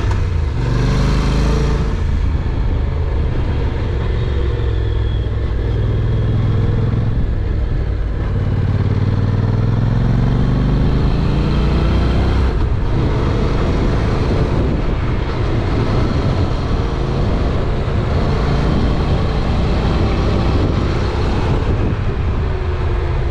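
Honda NC750X motorcycle's parallel-twin engine running under way, its pitch rising several times as it pulls up through the gears.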